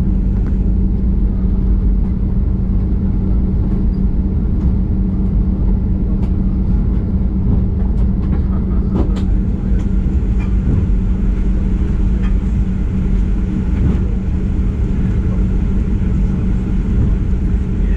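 Cabin noise inside a Boeing 737-900ER: the steady drone and low rumble of its CFM56 engines and airframe, with a constant hum and a few light clicks around the middle.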